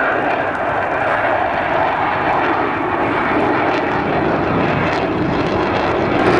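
Fixed-wing aircraft engine running steadily as the plane flies a display turn.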